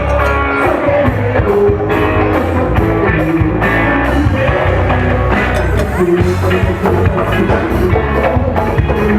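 Loud band music with drum kit and guitar over a steady beat.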